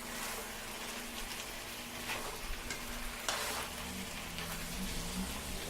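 Spiced chicken drumsticks sizzling in hot oil in a pan while being stir-fried, with a steady hiss and a few scraping strokes of the spatula against the pan.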